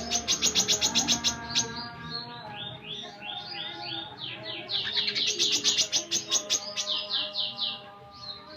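Brown-throated sunbird singing: fast runs of sharp high chirps, roughly eight a second, broken in the middle by a string of short down-slurred notes, then another fast run that fades near the end.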